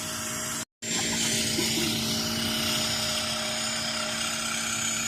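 A motor running steadily, a constant hum under a high hiss, cut off completely for a moment under a second in.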